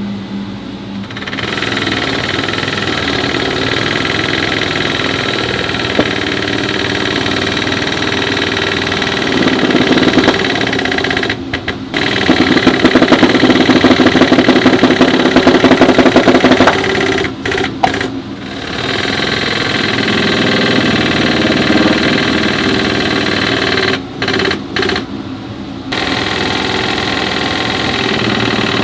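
A motor-driven machine running steadily, cutting out briefly three times and starting again, louder and with a fast rattle for several seconds in the middle.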